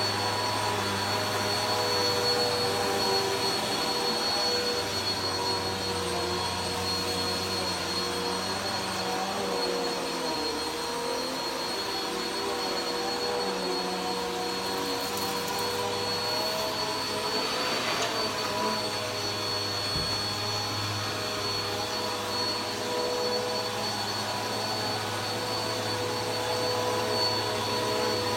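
Vacuum cleaner running steadily while carpet is vacuumed: a constant motor hum and high whine over a rush of suction noise, the pitch wavering slightly as the nozzle is pushed along.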